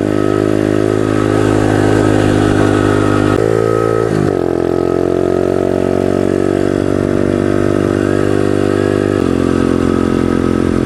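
Pit bike engine running as the bike is ridden along. The note changes about three and a half seconds in, gliding to a new pitch, and changes again about nine seconds in.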